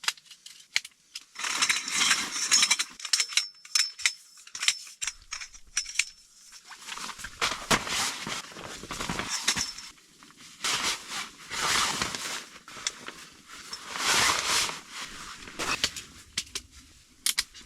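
A folding camp cot being assembled: bouts of fabric rustling and frame scraping, with light clicks and clinks of the frame as it is forced into place. Fine ticking of snow on the tent fabric runs underneath.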